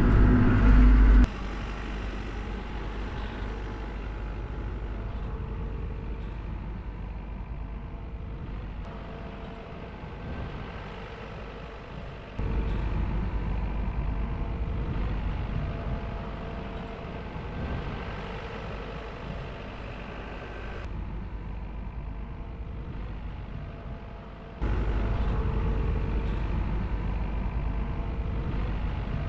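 Diesel engine of a heavy loader machine running steadily. Its level drops and jumps back abruptly a few times.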